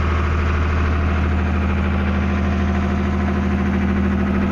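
Sailboat's inboard diesel engine running steadily while motoring, a constant low drone.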